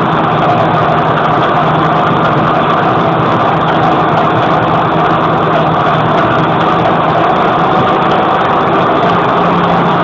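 John Deere 6820 tractor's six-cylinder diesel running with no muffler on the exhaust, an open, loud exhaust note held at a steady speed with no revving.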